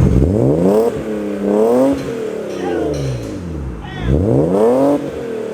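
BMW E36 M3's straight-six revved three times through its new Magnaflow muffler, the exhaust note rising and falling back with each blip.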